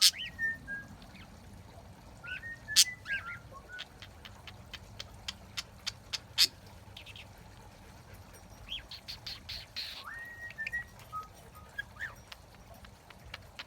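Pet birds, a budgie and a cockatiel, whistling in short phrases of held and sliding notes, three bursts in all, with many sharp little clicks and chirps between them.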